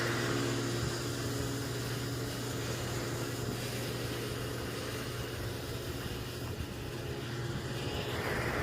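Fuel pump running with a steady hum while avgas is pumped into a Cessna 172's tank.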